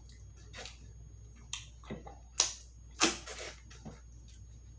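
Close-up wet mouth smacks and chewing clicks from eating chicken wings, about half a dozen at uneven spacing, the loudest about two and a half and three seconds in.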